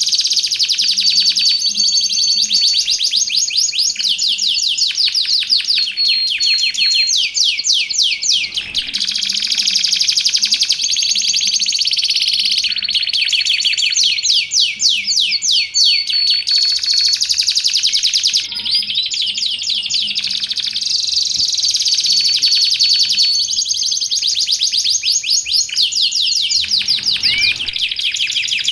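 Domestic canary singing without pause: long runs of rapid trills, broken every few seconds by short strings of repeated clear notes.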